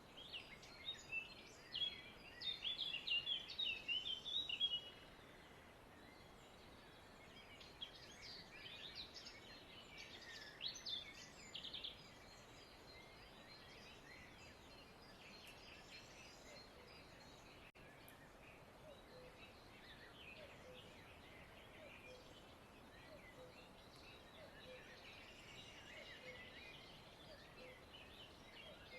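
Birds chirping in quick bursts of short high calls, loudest in the first five seconds and again around ten seconds in, then fainter, over quiet background noise.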